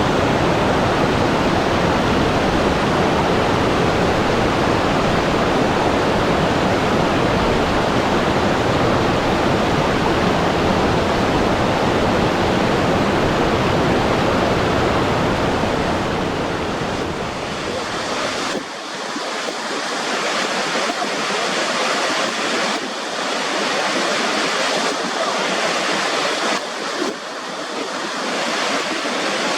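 Steady rushing-water noise, deep and full at first. About two-thirds of the way through it changes suddenly to a thinner, hissier wash without the low rumble, then rises and falls a little.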